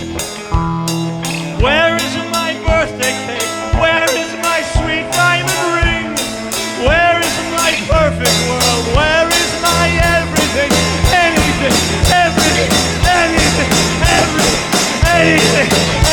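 Live rock band playing an instrumental passage: drums keep a steady beat, with bass underneath and a lead line of bending notes over the top.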